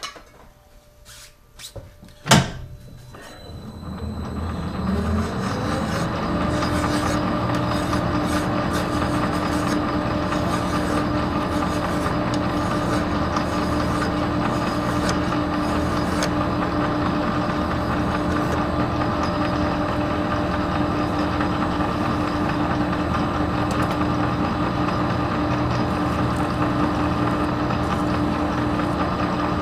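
Metal lathe switched on with a sharp click, its motor spinning up over a few seconds and then running at a steady speed.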